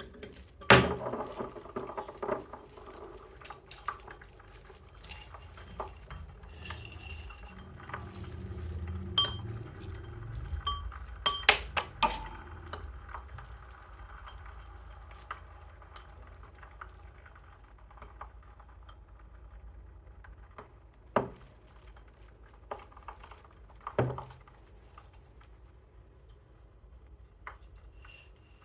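Red-hot metal ball knocking and clinking against a dish of oil and snacks, with many scattered crackles and clicks. There is a loud knock about a second in and another cluster of knocks about twelve seconds in.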